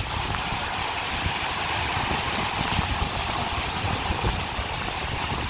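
Rough Caspian Sea surf: strong waves breaking and washing on the shore as a steady rush of noise, with wind rumbling on the microphone.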